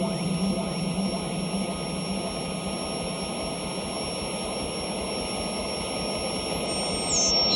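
Electronic noise music: a dense, steady hiss and rumble with thin high whining tones held over it. Near the end, the highest whine steps down in pitch.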